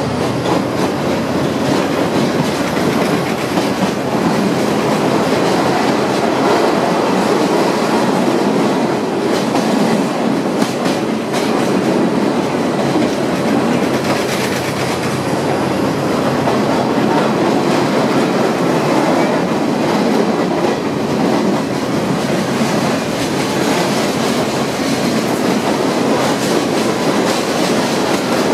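The open-sided car of the Sagano torokko sightseeing train running, heard from inside: a loud, steady rumble and clatter of steel wheels on the rails, very noisy. A few sharper clicks stand out about ten seconds in.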